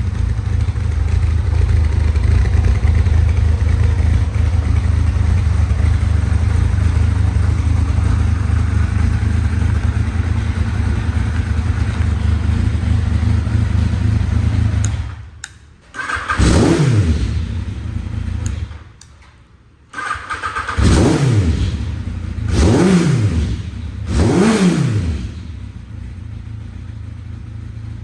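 Yamaha XJR1300's air-cooled inline-four running through twin carbon aftermarket silencers: it idles steadily, then after about fifteen seconds the throttle is blipped four times, each rev rising sharply and falling back, before it settles to a quieter idle.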